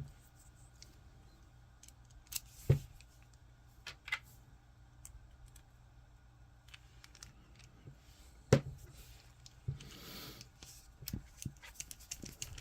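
Small 3D-printed plastic parts and a screw being handled and fitted together by hand: scattered light clicks, with two sharper knocks about three seconds in and again past eight seconds, and a brief scrape a little before the end.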